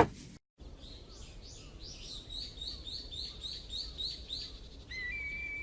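Birds chirping, a quick even series of short chirps about three a second, then a steady thin whistling call held for about a second and a half near the end, used as background ambience in an animated series.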